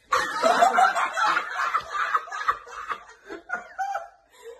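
Hearty, loud human laughter, breaking into shorter, quieter bursts toward the end.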